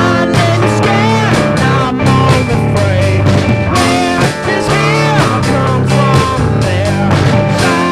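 Psychedelic rock music in an instrumental passage: a lead line with bending, wavering notes, over steady bass notes and a drum beat.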